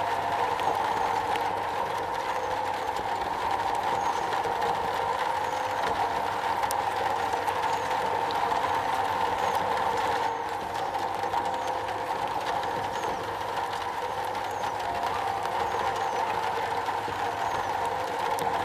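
Rain falling on a metal roof, a steady, dense hiss with no let-up, dipping slightly for a moment about ten seconds in.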